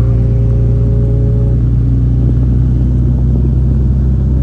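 Motorcycle engine running steadily with a loud, constant low hum, among the sound of other motorcycles; a faint higher held tone fades out about a second and a half in.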